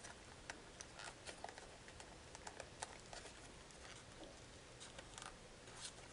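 Faint, scattered crinkles and light clicks of foil origami paper being crimp-folded and pressed by hand.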